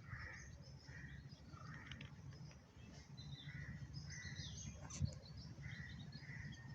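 Crow cawing faintly, short harsh calls repeated about two-thirds of a second apart in a few runs, over a steady low rumble; one sharp click about five seconds in.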